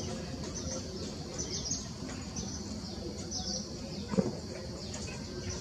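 Birds chirping, short high notes repeated every half second to a second, over a steady low rumble, with one dull thump about four seconds in.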